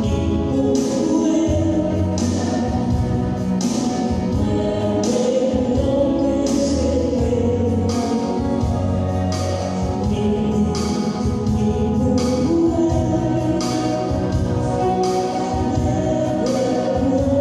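Gospel music: a choir singing over a band with a steady beat and bass.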